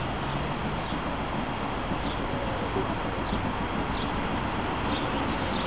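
Heavy rain falling steadily, an even hiss. A short, high, falling chirp recurs every second or so.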